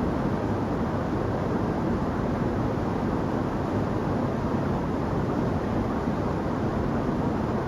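Waterfall: a steady, unbroken rush of falling water, weighted toward the low and middle pitches.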